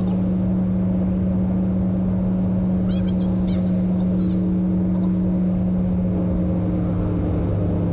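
Mazda B-series pickup's fuel-injected engine droning steadily at highway cruise with road noise, heard from inside the cab; the engine note drops slightly near the end. A few faint high chirps about three seconds in.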